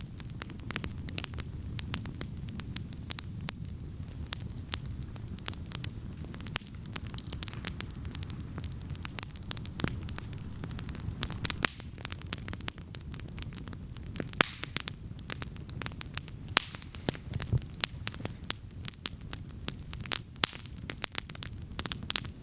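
Wood campfire burning and crackling, with frequent sharp pops and snaps over a steady low rumble of the flames.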